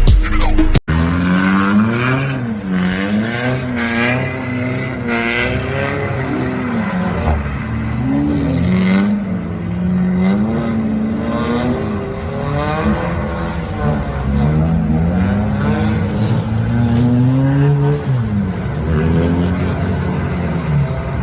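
Car engine revving up and down over and over, its pitch rising and falling every second or two.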